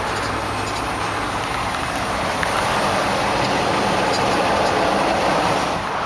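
2001 Cadillac Seville STS's 32-valve Northstar V8 idling with a steady running noise.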